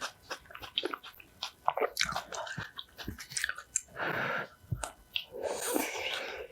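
Close-miked eating sounds: a person chewing and biting food, with many short crisp crunchy clicks and a couple of longer, denser stretches of mouth noise about four and six seconds in.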